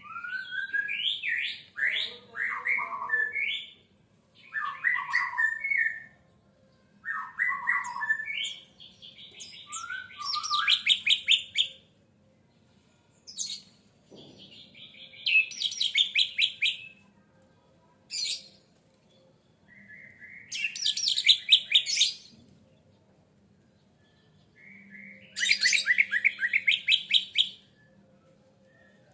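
Orange-headed thrush singing: loud, varied whistled phrases a few seconds long, separated by short pauses. The early phrases slide up and down; the later ones are rapid trills, with a couple of single sharp notes in between.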